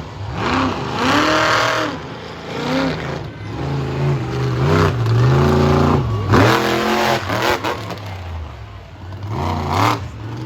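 Monster truck engine revving hard in repeated bursts, its pitch climbing and dropping several times, with the longest, loudest pull in the middle.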